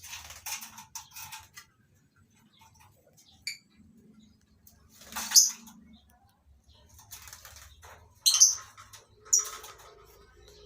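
A flock of lovebirds giving short, shrill chirps in scattered bursts. The loudest calls come about five and a half and eight and a half seconds in.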